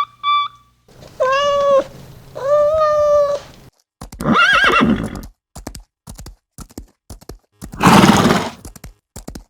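Animal calls: two drawn-out, pitched cries, then a rougher call, followed by a run of short clicks and a loud breathy burst near the end.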